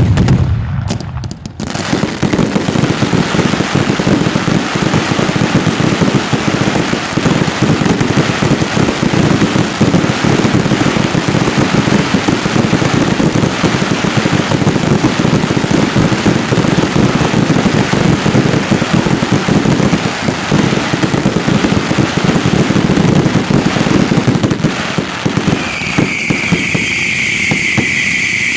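A fireworks display firing a dense, rapid barrage of bangs and crackles, nearly continuous and loud. It eases off about 25 seconds in, leaving a steady high hiss near the end.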